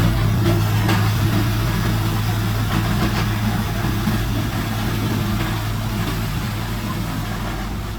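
Heavy diesel engine of earthmoving equipment running steadily with a low, even hum, slowly growing fainter.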